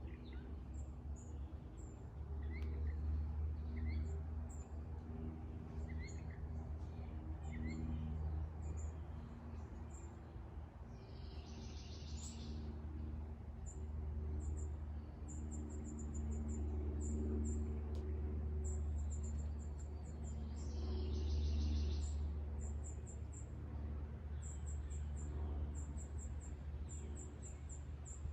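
Outdoor ambience of birds chirping: many short high chirps throughout, a few lower chirps in the first several seconds, and two louder, harsher calls about a third of the way in and again past the middle, over a steady low hum.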